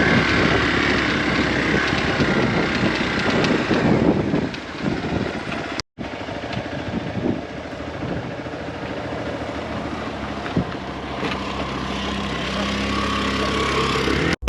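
A vehicle engine running steadily with road and wind noise; the sound drops out for an instant near six seconds where two clips are joined.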